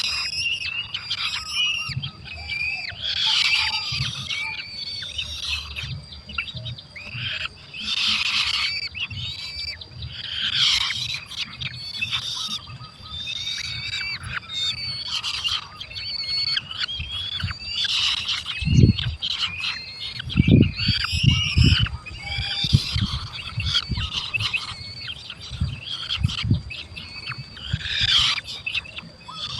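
Birds calling continually, with many short, high chirps and squeals that overlap one another. From about two-thirds of the way in there are several low, dull thumps.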